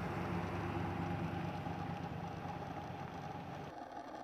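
A vehicle engine idling steadily as a low, even hum, cut off abruptly near the end, leaving a fainter steady background hum.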